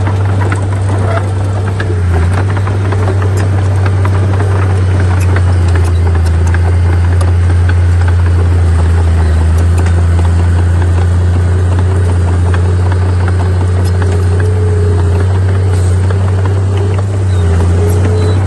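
Heavy diesel earthmoving machinery running steadily under load, a deep engine hum with a slightly wavering higher tone over it and scattered small clanks and rattles.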